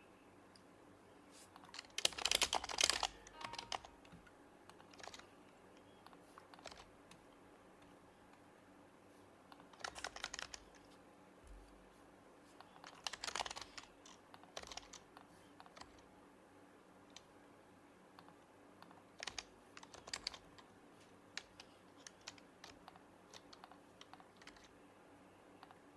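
Typing on an HHKB Professional HYBRID Type-S keyboard with its silenced Topre switches. The keystrokes come in short bursts with quiet pauses between them, the longest burst about two seconds in.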